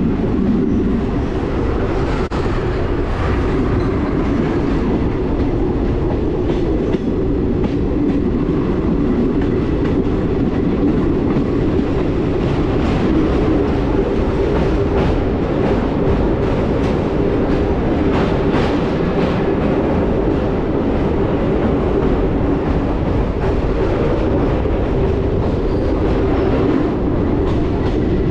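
Passenger train coaches on the move: a steady rumble of wheels on rail, with repeated clicks as the wheels pass over rail joints.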